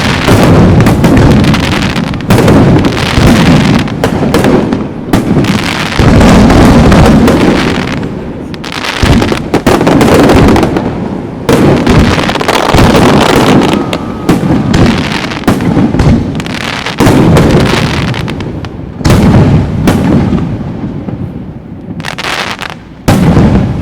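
Aerial fireworks shells bursting in a dense barrage: many sharp booms in quick succession, overlapping with rolling, rumbling echoes.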